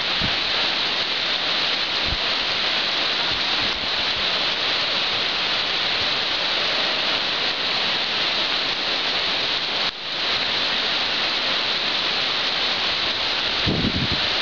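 Rain shower falling steadily, an even hiss of rain on the surroundings. The sound drops out briefly about ten seconds in, and a couple of low thumps come near the end.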